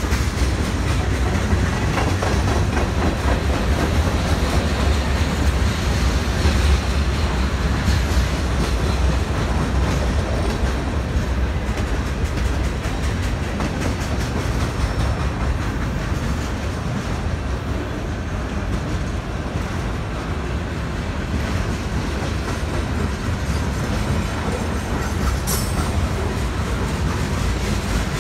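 Freight train cars rolling steadily past, with a continuous low rumble and the clickety-clack of wheels over the rail joints. Near the end comes one brief high wheel squeak.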